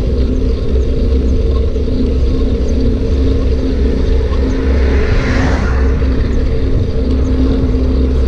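Steady loud rumble and hum of a bike in motion, recorded while riding, with a brief hissing swell about five seconds in.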